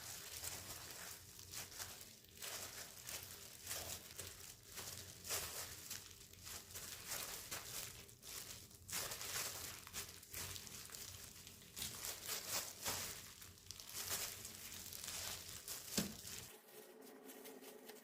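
Irregular crinkling and rustling of something being handled, with many small crackles and a sharper click near the end; then the background changes to a quiet room with a faint steady hum.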